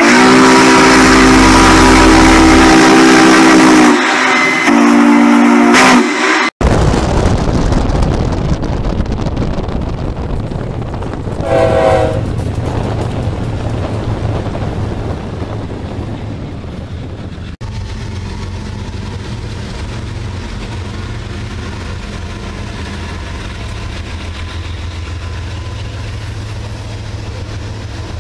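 A train air horn sounds a loud chord in two blasts, a long one of about four seconds and a shorter one. Then a freight train rolls past: BNSF diesel locomotives followed by double-stack container cars, a steady rumble of wheels on rail.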